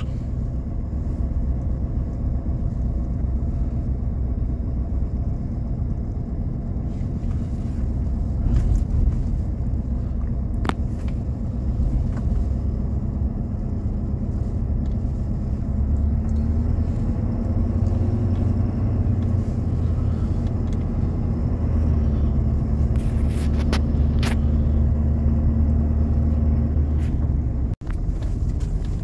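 Steady engine and road rumble of a vehicle being driven, with a few faint clicks and a momentary cut-out near the end.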